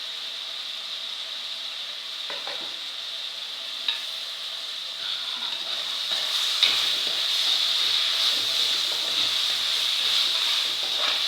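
Onions, shallots and green chillies sizzling as they fry in oil in a pan, stirred with a spoon that knocks against the pan a few times. The sizzle grows louder about six seconds in.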